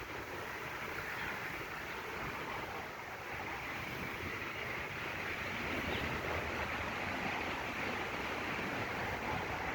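Steady rushing outdoor background noise, even throughout, with no distinct calls or knocks standing out.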